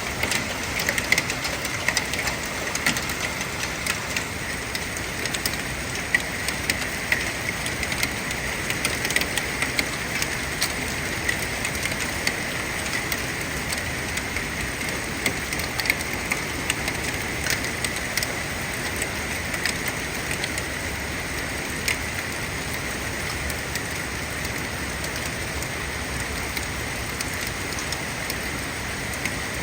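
Hail falling with heavy rain: a steady hiss of rain dotted with many sharp ticks of hailstones striking hard surfaces. The ticks are thickest in the first half and thin out later.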